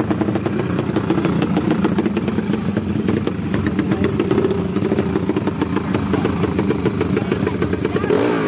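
Small drag-racing motorcycle engines running at the start line with a fast, rattling beat, the revs rising and falling.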